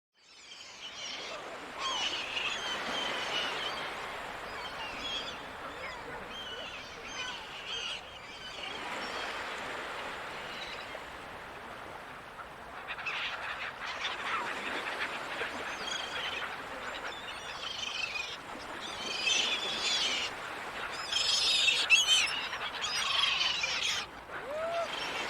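Seagulls calling over the steady wash of ocean surf, fading in from silence at the start; the calls come thickest and loudest about three quarters of the way through.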